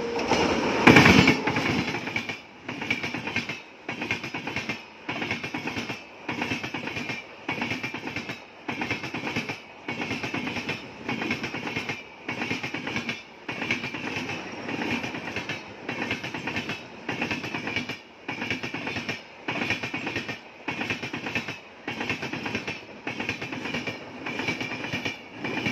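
Express passenger train's coaches rolling past close by as the train crosses over to another track: a loud burst of wheel noise about a second in, then a steady, rhythmic wheel clatter about once a second as each coach goes by.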